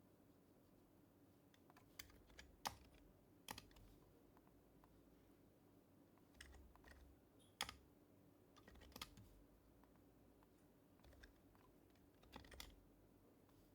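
Intermittent typing on an HHKB Professional HYBRID Type-S keyboard with silenced Topre capacitive switches: short clusters of soft keystrokes separated by pauses, with a couple of sharper taps about two and a half and seven and a half seconds in.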